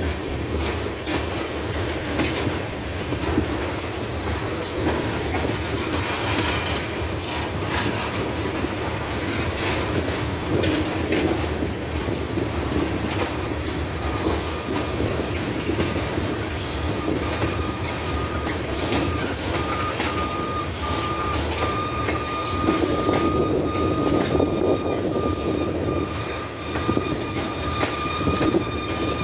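Freight train of tank cars rolling past: a steady rumble of steel wheels on rail with clacking over the rail joints. From about halfway through, a thin, steady, high wheel squeal joins in and holds to the end.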